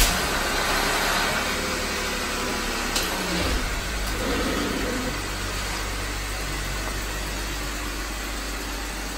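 Jeep Wrangler engine running at a steady idle.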